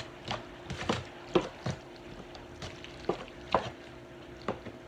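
A utensil stirring cooked macaroni in a pan, with irregular scrapes and taps against the pan, about a dozen in all, over a faint steady hum.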